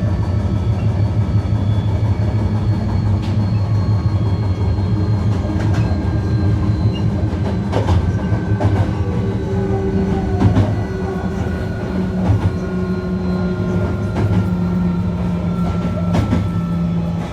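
Hankyu 1300 series electric train running, with the whine of its Toyo IGBT VVVF inverter and traction motors slowly falling in pitch over a steady rumble. Sharp rail-joint clicks come now and then, several seconds apart.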